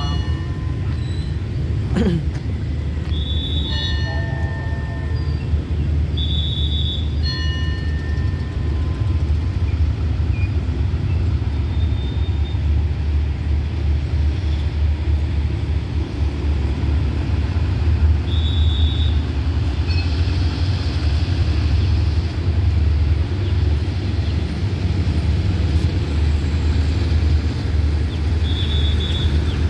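Steady low rumble of a passenger train hauled by a Hitachi diesel-electric locomotive.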